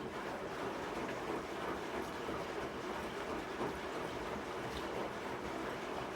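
Sharp ES-S7B fully automatic washing machine running, a steady churning rumble.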